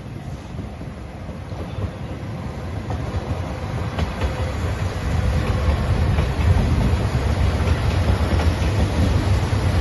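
Train approaching on the line, its running rumble growing steadily louder.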